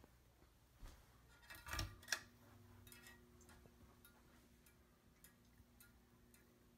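Hampton Bay Redington IV ceiling fan being switched on: a short rustle and a sharp click about two seconds in. Its motor then starts a faint, steady hum, with scattered light ticks as it spins up.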